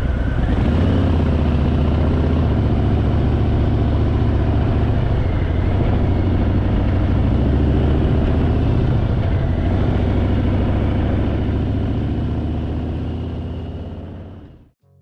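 Harley-Davidson Fat Boy's V-twin engine running steadily at highway speed, heard from on the bike, fading out near the end.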